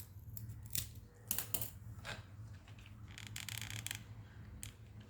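Scissors snipping repeatedly while trimming craft pieces: a string of short, sharp cuts with a quicker run of snips about three seconds in.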